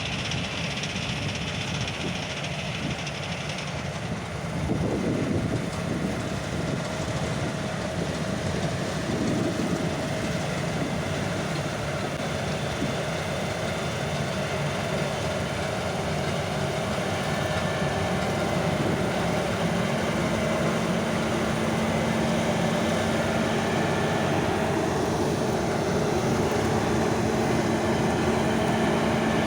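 Large diesel farm machinery running steadily under load, with a continuous mechanical clatter; it gets a little louder about five seconds in, and a steady hum joins about two-thirds of the way through.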